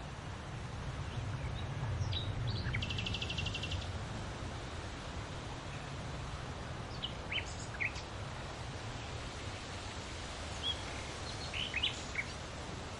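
Wild birds chirping and calling in short scattered notes, with a rapid trill about three seconds in, over a steady low rumble of background noise.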